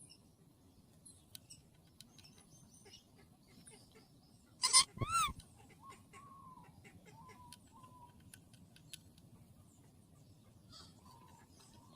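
A parrot giving one loud squawk about five seconds in, a short call that rises and falls in pitch, followed by softer, quieter whistling calls that glide in pitch, with faint scattered ticks between them.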